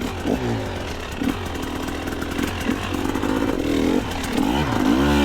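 Two-stroke dirt bike engine revving up and down several times as the throttle is worked, with a longer rev near the end.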